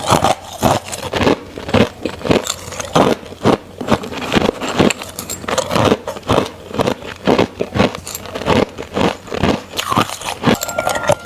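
Crushed ice being bitten and crunched between the teeth close to the microphone: a steady run of sharp, crackly crunches, about two a second.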